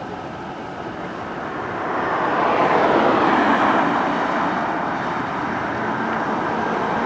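A vehicle passing close by, its engine and road noise swelling about two seconds in and then holding steady.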